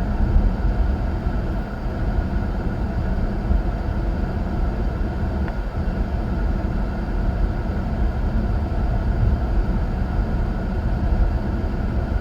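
Steady road and engine noise heard from inside a moving car's cabin, a constant low rumble.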